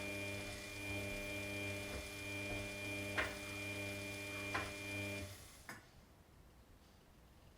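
Washing machine running with a steady hum, with two sharp clicks partway through. A little over five seconds in the hum dies away and one more click follows.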